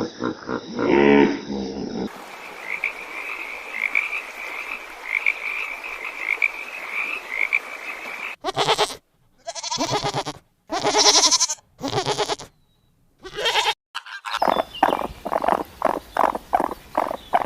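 A string of separate animal recordings: first a steady chorus of repeated high chirping calls, then several separate bleats with silent gaps between them, and near the end a fast run of short clucking calls.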